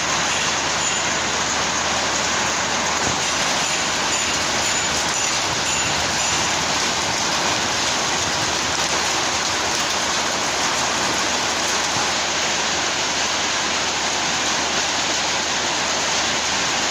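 Rain falling steadily, a loud even hiss that does not let up.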